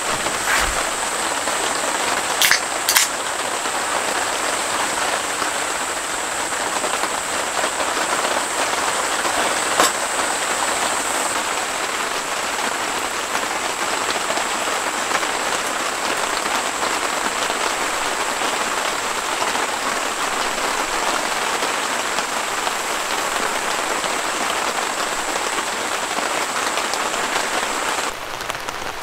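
Steady rain falling on a tent's clear plastic panels and the ground around it. A few sharp clicks come in the first three seconds and one about ten seconds in, and a thin high tone runs under the rain until near the end.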